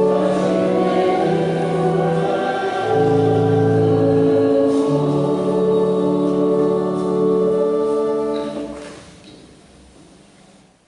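A choir singing a hymn in long held chords. The last chord ends about eight and a half seconds in, and its echo dies away.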